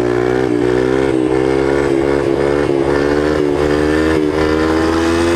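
Yamaha TTR125 dirt bike's single-cylinder four-stroke engine running at steady high revs under way, its pitch wavering slightly with brief dips.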